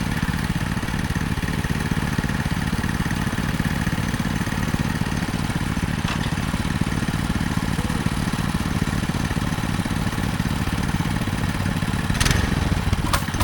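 Minibike engine running steadily at a constant speed, with a couple of short clicks near the end.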